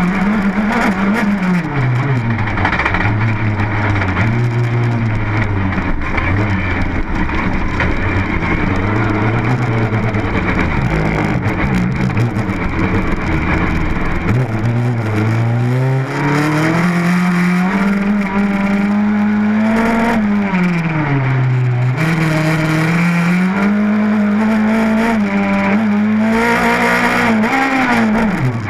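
Rally car engine heard from inside the cabin, revving hard and rising and falling in pitch again and again as the driver accelerates, changes gear and lifts off. Midway the revs climb steadily for several seconds, then drop sharply.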